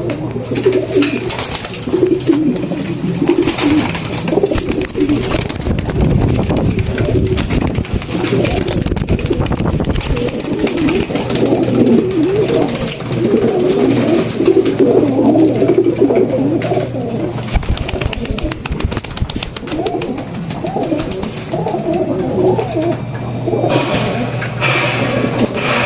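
Domestic pigeons cooing, several overlapping warbling coos throughout, with many small clicks and a low steady hum beneath in stretches.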